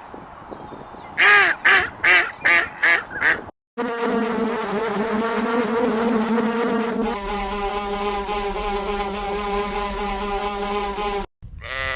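A duck quacking about six times in quick succession, then a flying insect buzzing steadily for about seven seconds, its pitch stepping a little lower midway. A sheep's bleat starts just at the end.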